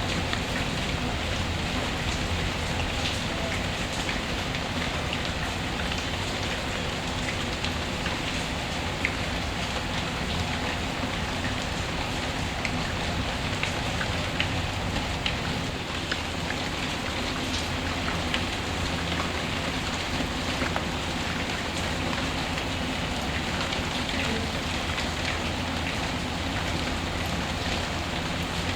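Steady rain ambience, an even wash of rainfall with scattered small clicks.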